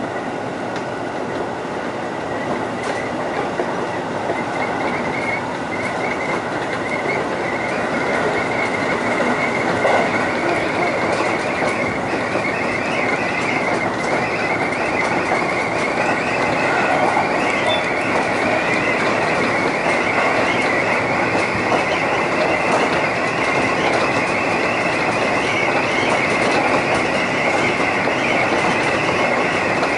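Seibu line electric commuter train running on its rails, heard from inside the front car. The running noise grows gradually louder as the train gathers speed, with a steady high whine over the rumble.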